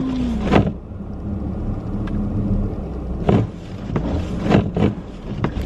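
Car engine running, heard from inside the cabin as a steady low hum, with a few short sharp sounds over it.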